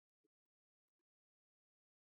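Near silence, with only a few extremely faint ticks.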